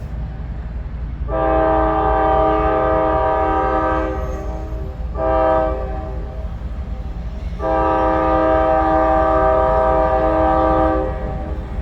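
Locomotive air horn sounding a chord in blasts: a long blast that fades a little near its end, a short one, then a final long one, the pattern of a grade-crossing signal. A steady low rumble runs underneath.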